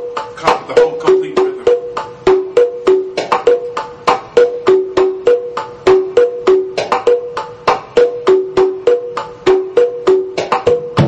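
Volcano Percussion batá drums played by hand in a steady, repeating rhythm of several sharp strokes a second, the strokes ringing on two alternating pitches, one higher and one lower.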